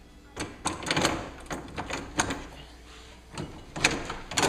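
A run of irregular clicks and knocks from parts and tools being handled on a workbench, with no engine running.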